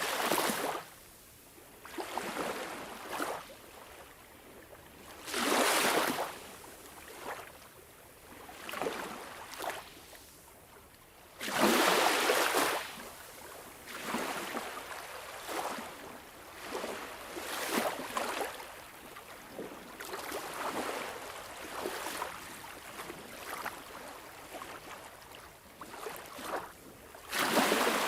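Sea waves washing in, swelling and falling away in irregular surges of a second or two every few seconds, the biggest about twelve seconds in.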